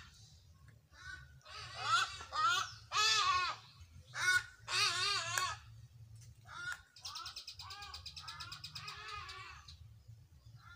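Birds calling outdoors: a run of loud, wavering calls, then a rapid high trill that starts about seven seconds in and lasts a couple of seconds.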